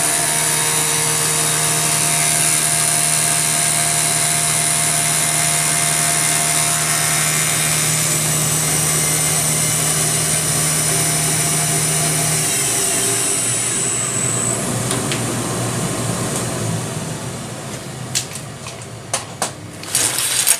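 Belt-drive CNC milling machine running a roughing pass with an insert cutter, a steady machine sound with several held tones. About twelve seconds in a low hum cuts off and the machine winds down over the next few seconds, followed by a few sharp clicks near the end.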